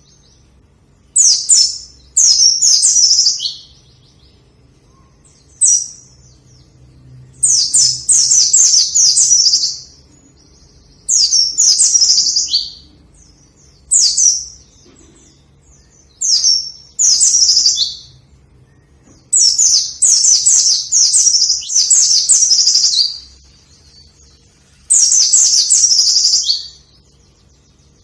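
A white-eye (pleci) singing vigorously in repeated phrases of rapid, high twittering notes. Each phrase lasts one to three seconds, with short pauses between them.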